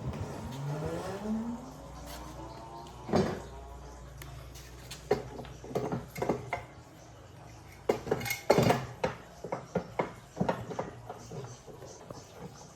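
A restored mortising machine's electric motor spinning up with a rising whine over the first two seconds, then running with a steady low hum. Irregular metallic knocks and clanks sound over it, the loudest about three seconds in and around eight to nine seconds.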